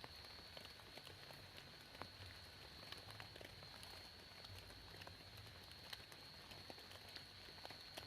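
Faint rain: scattered drops tapping irregularly, with a steady high-pitched whine running underneath.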